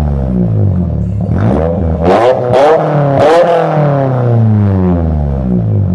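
Toyota Celica engine through a straight-piped exhaust, revved several times in quick succession. The highest revs come in the middle, with sharp rasps at the peaks, and the engine falls back slowly to idle near the end.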